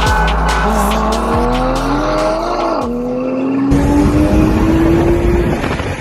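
A car engine accelerating hard. Its pitch climbs, drops sharply at a gear change nearly three seconds in, then climbs again, over background music with a steady beat. From just under four seconds in, a dense rush of noise joins the engine.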